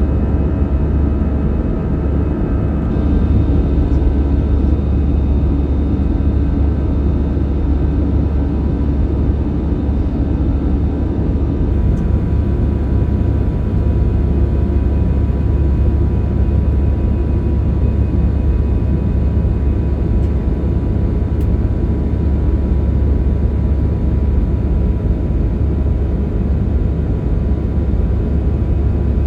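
Steady drone of an Airbus A320-200's jet engines and airflow, heard inside the cabin. It is a deep rumble with faint steady tones above it, and it gets slightly louder about three seconds in.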